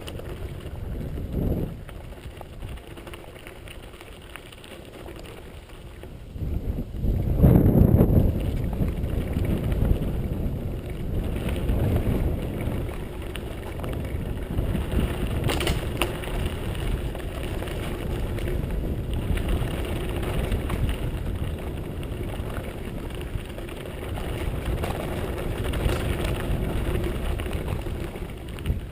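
Mountain bike riding fast down a dirt forest track: a continuous rough noise of tyres and bike, with wind on the microphone. It is loudest from about seven to ten seconds in.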